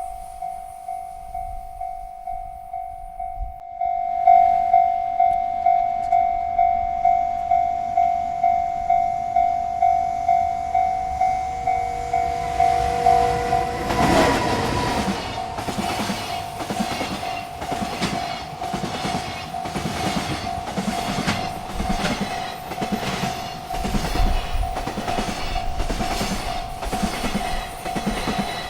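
Railroad crossing bell ringing about twice a second, getting louder about four seconds in. About halfway through, a freight train reaches the crossing and its cars roll past with a steady clickety-clack of wheels over the rail joints, while the bell keeps ringing.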